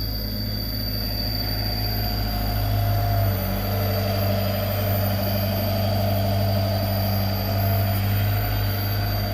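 Komatsu PC75 mini excavator's diesel engine running steadily, with a thin high whine above the low drone and slight swells in level as it works.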